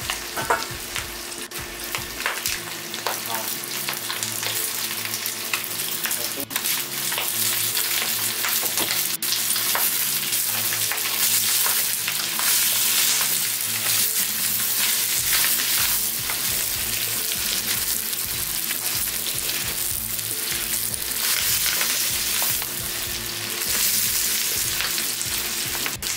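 Chicken feet and green onions sizzling steadily in a hot wok, stirred now and then with a wooden spatula.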